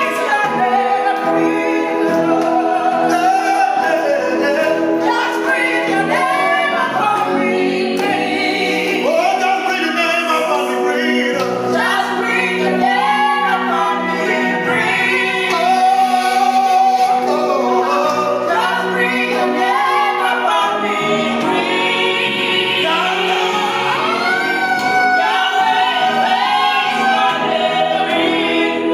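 Choir singing church music, with held notes sounding steadily under the moving vocal lines.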